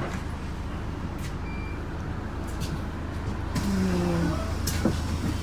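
Inside a London bus: the engine's steady low rumble and road noise, with scattered small rattles and clicks and a short low tone about four seconds in.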